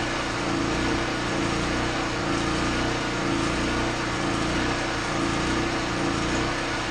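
A small motor running steadily, with a constant drone and no change in speed.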